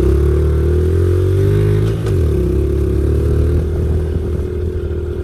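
Pit bike engine running while the bike is ridden along a dirt trail. Its pitch drops briefly about two seconds in, then holds steady.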